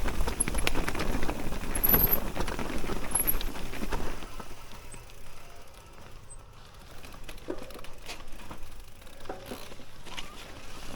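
Riding noise of a Whyte 160 e-mountain bike on a rough track: a low rumble of wind and tyres with rattles and clicks, dropping to quieter scattered clicks and knocks about four seconds in.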